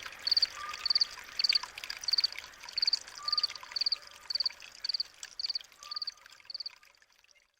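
Running water, with a cricket chirping steadily about twice a second, each chirp a quick run of pulses. A lower call repeats every couple of seconds. All of it fades out near the end.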